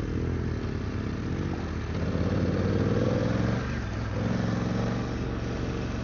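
Adventure motorcycle engine running off-road at low speed, its revs climbing about two seconds in, easing back near four seconds, then picking up again.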